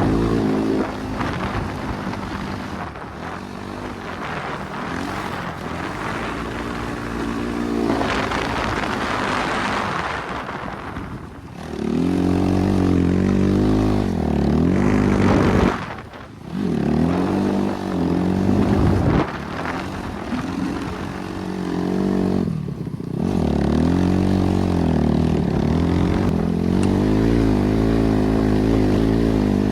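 BRZ MX8 dirt bike's NB300 single-cylinder engine under way, revving up and down over and over. The sound drops away briefly three times: once about a third of the way in, once around the middle and once about three quarters of the way through.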